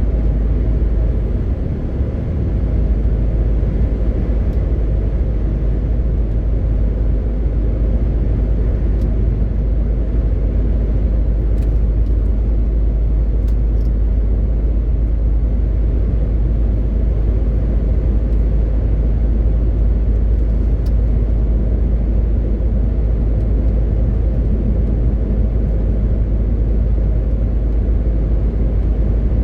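MAN TGX 18.520 truck on the move, its 12.4-litre six-cylinder diesel engine giving a steady low drone under road and tyre noise.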